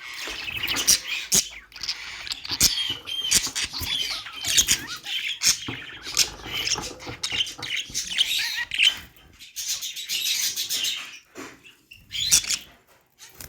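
Budgerigars chirping and chattering in a fast, continuous stream of high chirps and clicks, dropping off near the end.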